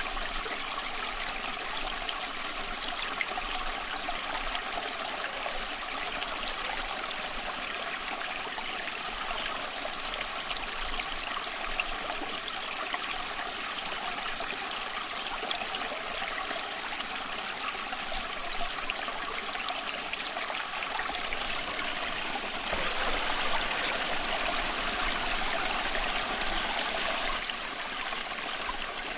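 Small stream flowing and trickling steadily over rocks, briefly a little louder about two-thirds of the way through.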